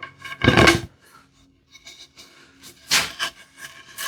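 Wooden parts knocking and scraping together, twice, as a freshly grooved wooden strip is test-fitted onto the tambour door's slats.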